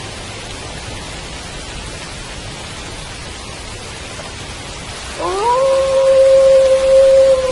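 Steady rain, with a wolf howl starting about five seconds in that rises quickly and then holds one long, level note.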